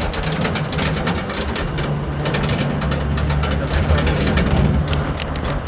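Vehicle engine running steadily with a low hum, with many irregular clicks and rattles over it.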